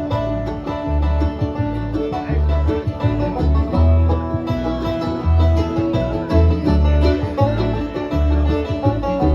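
Bluegrass string band playing an instrumental break: banjo picking and guitar, with a low bass note on roughly every beat.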